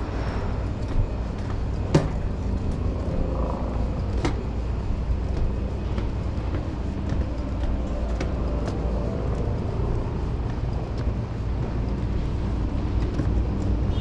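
Steady low rumble of a railway platform beside an electric commuter train, with two sharp clicks about two and four seconds in.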